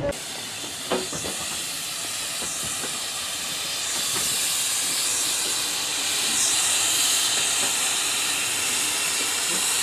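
Steam locomotive letting off steam: a steady hiss that grows louder about four seconds in.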